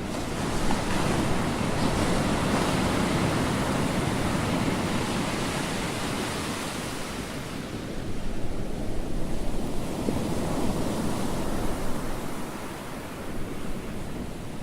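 Water rushing and splashing along a sailing yacht's hull under way, with wind noise, the rush swelling and easing several times.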